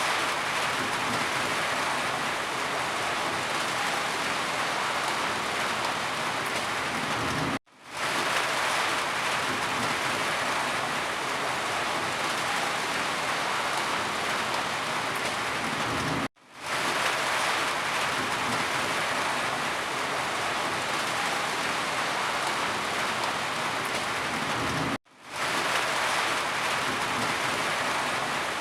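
Steady rain falling, an even hiss. About every nine seconds, three times here, it cuts out for an instant and fades back in: the seam of a looped rain recording.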